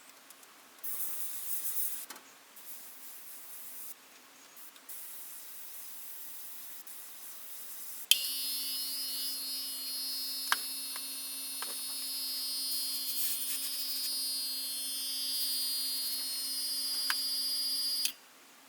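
Small airbrush air compressor switching on with a click about eight seconds in, running steadily with a hum, a high whine and a hiss for about ten seconds, then cutting off abruptly near the end. Before it starts there are short, faint hisses of the airbrush spraying.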